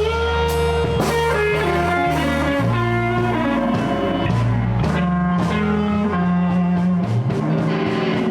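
Live electric blues band playing an instrumental stretch between sung lines: electric guitar over a walking bass line and drum kit.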